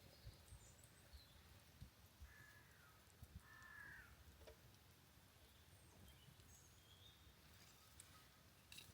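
Near-quiet forest ambience with two faint bird calls about a second apart, each dipping in pitch, and a few thin high chirps.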